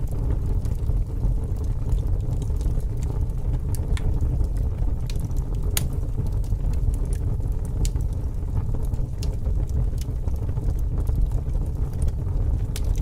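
Fire crackling: a steady low rumble with scattered sharp pops and snaps at irregular intervals.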